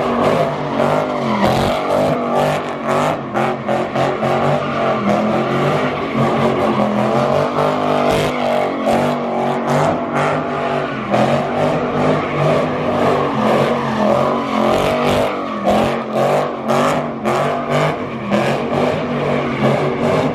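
Car engines running at high revs and revving, their pitch rising and falling over and over, with sharp crackles throughout.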